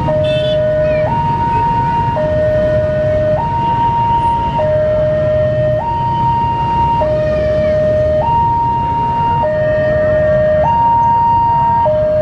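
Railway level-crossing warning alarm sounding a steady two-tone hi-lo signal, each tone lasting a little over a second, over a low rumble of waiting traffic.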